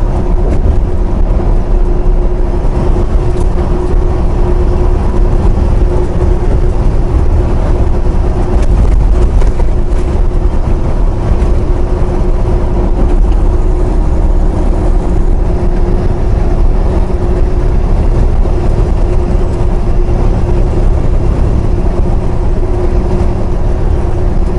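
Steady engine and road noise inside a semi-truck cab while driving: a constant low rumble with an even hum over it.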